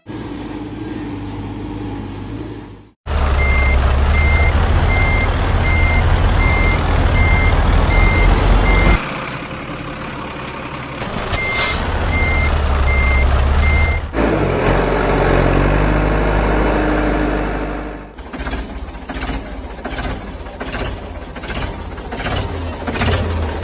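Vehicle reversing alarm beeping about twice a second over a loud low engine rumble, the beeping stopping and starting again; later the engine runs alone with a regular rhythmic pulse.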